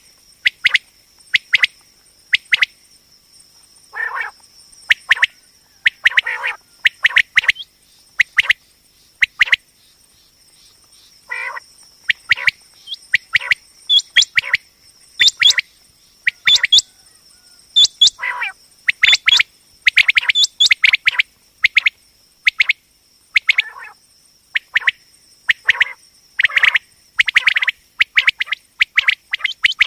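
Common quail calling: many short, sharp call notes in quick, irregular runs, with a steady thin high whine underneath.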